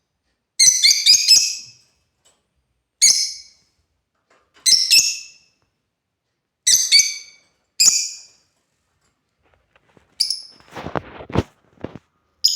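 African lovebirds giving short, shrill chirps, singly and in quick runs, every second or two. Shortly before the end comes a scratchy, rustling noise lower in pitch.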